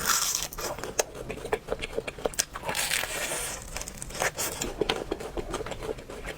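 Close-miked crunching and crackling of crispy fried food being bitten and chewed: many sharp, irregular crunches with short bursts of crackle.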